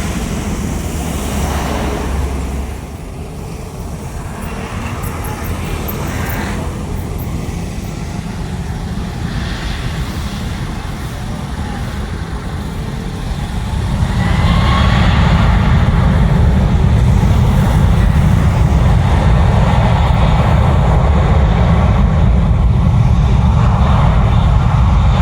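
Jet airliner engine noise at close range: a steady low rumble that swells to a loud, heavy roar about halfway through, with a faint rising whine as the jet passes.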